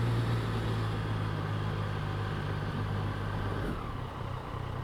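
Motorcycle engine running at low speed with a steady note that drops in pitch about three and a half seconds in as the bike slows.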